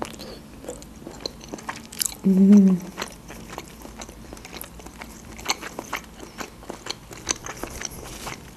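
Close-up chewing and biting of an octopus tentacle: many small wet clicks and smacks of the mouth. A short hummed 'mm' about two and a half seconds in is the loudest sound.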